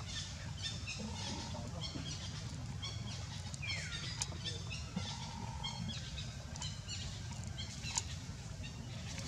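Birds chirping in short, quickly repeated high calls over a steady low rumble, with one longer falling call about four seconds in.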